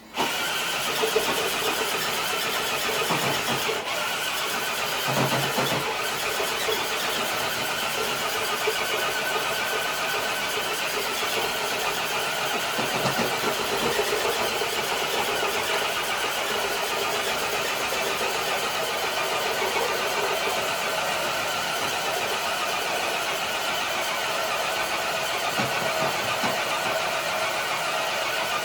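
Electric RC scale crawler truck's motor and gearbox whining steadily under load as it drags a weighted sled on concrete.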